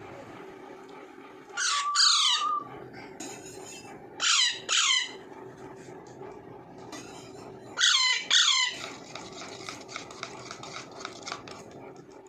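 Young Alexandrine parakeet giving harsh calls in quick pairs, each call falling steeply in pitch, three pairs about three seconds apart, over a steady low background hum.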